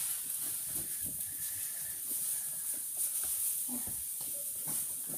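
Faint taps and rustles of hands working the plastic parts of a toy lip gloss maker, over a steady high hiss.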